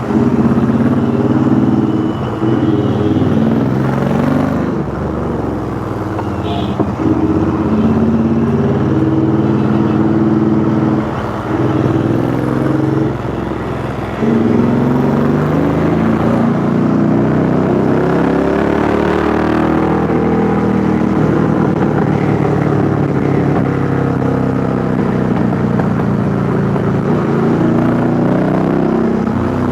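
Royal Enfield Interceptor 650's parallel-twin engine through a custom 2-into-1 exhaust, pulling up and easing off through the gears in stop-and-go riding, its pitch rising and falling over and over, with a short lull partway through.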